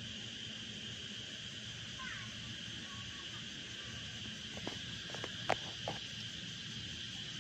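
A steady, high-pitched insect chorus, with a few sharp clicks a little past halfway.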